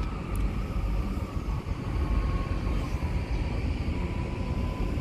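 Class 150 diesel multiple unit departing: a steady low rumble with a faint whine that falls slightly in pitch.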